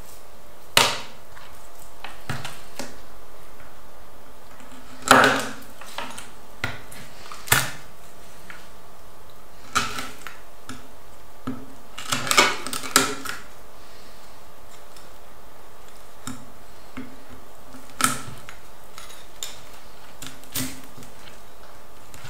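Knife work on a cutting board while a fish is filleted: scattered sharp knocks and clicks, with a quick cluster of them about twelve seconds in.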